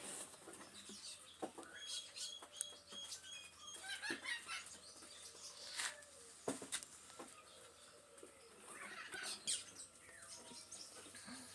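Birds calling and chirping, with a run of short repeated high chirps about two seconds in, mixed with scattered sharp knocks and clatters, the loudest about six and a half seconds in.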